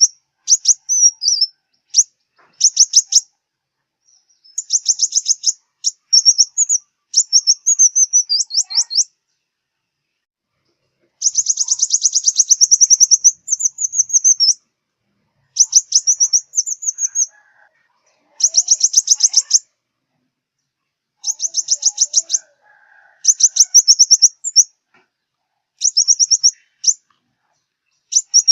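Sunbird song: high-pitched, rapid trills and chips repeated in short phrases of about a second, with brief pauses between them and a longer gap about ten seconds in.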